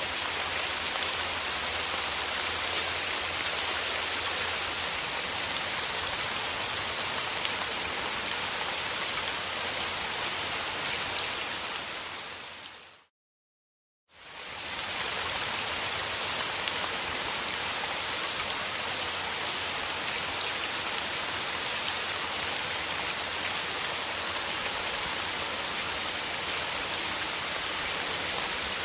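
Steady rain falling. About halfway through, it fades down to a second of complete silence, then fades quickly back in.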